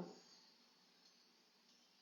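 Near silence: room tone, after the last held word of a woman's speech fades out at the very start.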